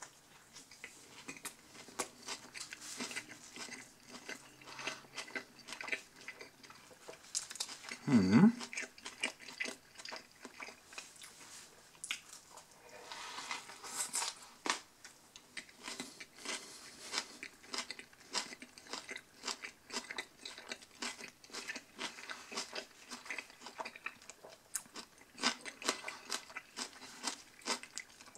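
A person chewing a mouthful of submarine sandwich close to the microphone, with soft, irregular crunching and mouth smacks, and one short hum about eight seconds in.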